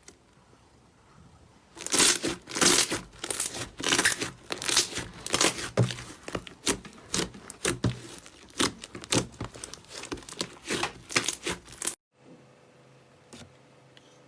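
Slime clicking: a dense run of sharp crackling pops and clicks that starts about two seconds in and cuts off abruptly near the end.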